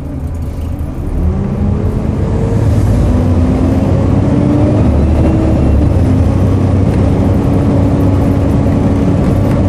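Volvo B7TL double-decker bus's diesel engine accelerating: its note rises over the first few seconds, then holds steady and loud under load, with a faint turbo whine above it.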